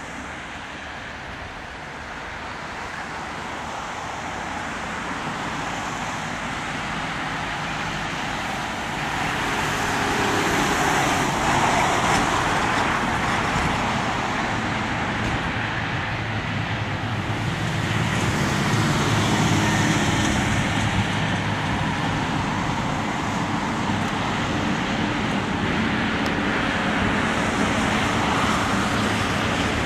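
An Airbus A340-300's four CFM56 jet engines at takeoff power: a steady jet roar that builds over the first ten seconds and stays loud, swelling again about two-thirds of the way through.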